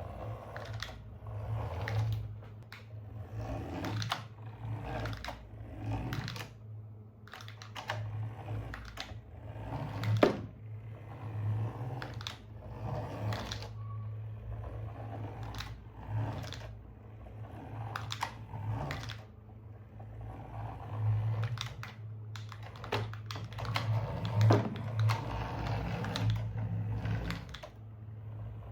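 Irregular clicks, taps and knocks of objects being handled, coming in uneven clusters, over a steady low hum.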